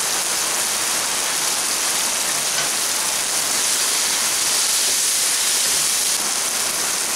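Chopped chicken filling sizzling in hot oil in a non-stick kadai, a steady high hiss, while it is stirred with a wooden spatula.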